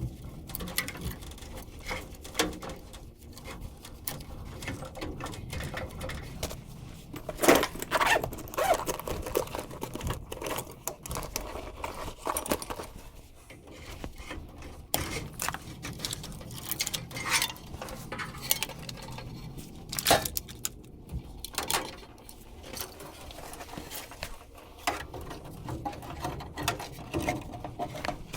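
Scattered clicks, taps and knocks of hands and tools working on the furnace's sheet-metal cabinet and blower wiring, with a couple of sharper knocks along the way.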